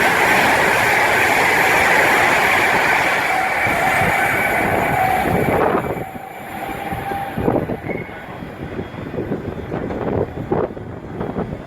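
Train passing on the main line. A loud, steady rush with a held whine cuts off sharply about six seconds in. Quieter irregular knocks of wheels on the track follow.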